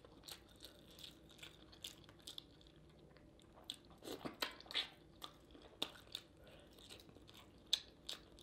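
A person chewing food, heard as faint, scattered short mouth clicks that bunch up about halfway through, with one sharper click near the end.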